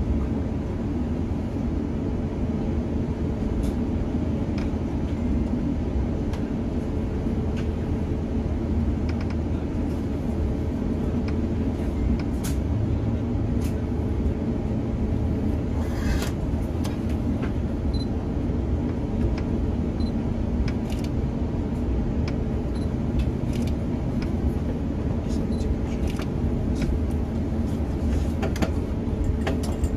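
Steady low rumble and hum inside the cabin of an Airbus A350-900 on the ground before takeoff, with scattered light clicks and knocks. The level holds even throughout, not the build-up of a takeoff roll.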